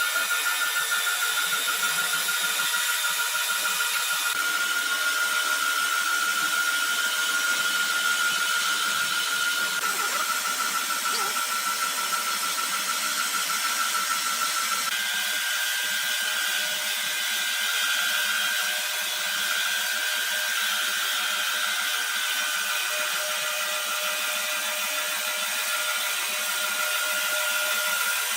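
Sawmill saw running with a steady high-pitched whine, its pitch stepping up slightly about halfway through.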